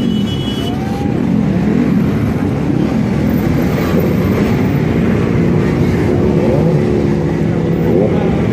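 Several motorcycle engines revving together, their pitches rising and falling and overlapping.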